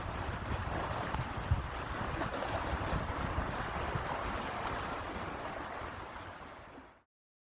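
Steady rush of moving water, with a little wind rumble, fading out near the end into silence.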